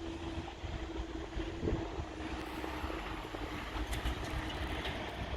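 Diesel multiple-unit train running, a low rumble with a faint steady tone over it, and a few light crackles near the end.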